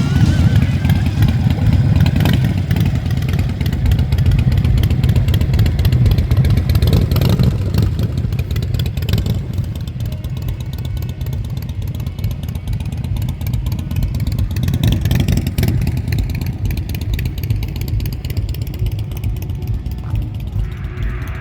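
Harley-Davidson V-twin motorcycle engine running loud and low, revved up and back down a few times.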